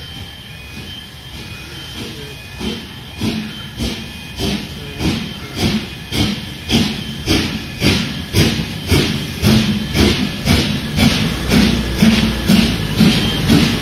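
Steam locomotive pulling away: a hiss of steam, then exhaust chuffs begin about two and a half seconds in, quickening and growing louder as the train gathers speed.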